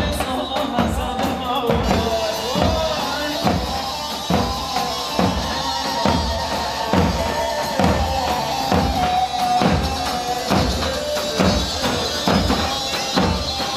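Live instrumental Turkish halay dance music: a keyboard melody over a steady, regular drum beat with tambourine.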